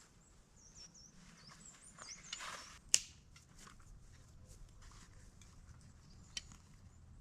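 Footsteps and rustling on the forest floor, with one sharp snap about three seconds in. A small bird chirps high in the first two seconds.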